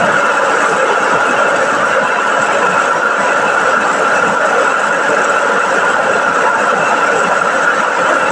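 Chao Phayu small rice milling machine running steadily while milling rice: an even mechanical noise with a constant high hum that does not change.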